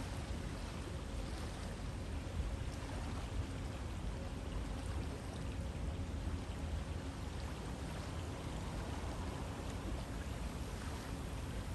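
River water flowing steadily, an even rushing noise with a deep low end.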